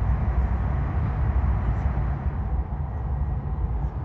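Steady low rumble of a Hayabusa Shinkansen train running on the line, heard from inside the passenger car.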